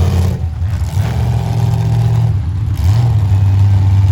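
Car engines revving loudly in steady holds, dropping off briefly twice, as at a demolition derby.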